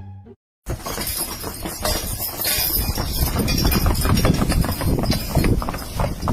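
Horse hooves clopping, many quick, irregular strikes over a steady hiss, starting just under a second in after a brief bit of orchestral music ends.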